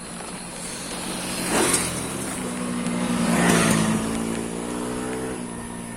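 Motor vehicle engine passing close on the road, with two loud swells about one and a half and three and a half seconds in. Its engine note fades out after about five seconds.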